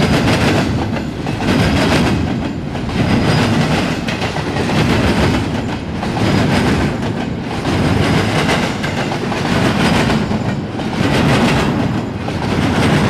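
CSX intermodal freight train's double-stack container well cars rolling past close by, wheels clacking and rumbling on the rails. The loud noise swells and eases in a steady rhythm about every second and a half.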